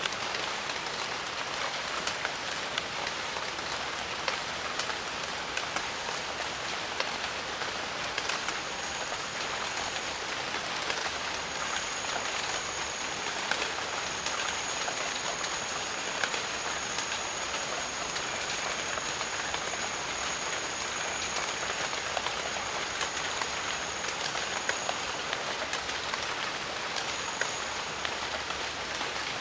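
Steady rain falling in a jungle, with close drops ticking sharply now and then. A thin, high, steady whine comes and goes from about six seconds in until near the end.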